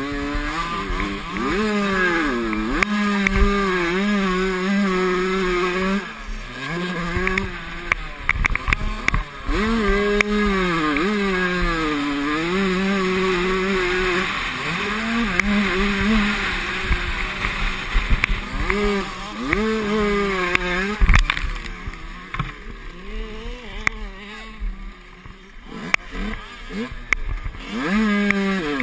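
Motocross bikes racing, their engines revving up and dropping again and again with throttle and gear changes, going quieter for a few seconds near the end.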